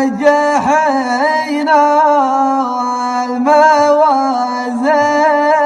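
A voice singing a slow Arabic poem, drawing out each word in long held notes that waver and slide between pitches.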